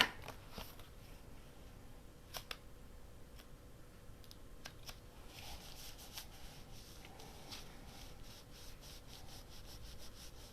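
Faint handling sounds of a large rubber stamp being inked and pressed onto paper by hand: a few light clicks, then a run of quick, soft rubbing strokes from about halfway through.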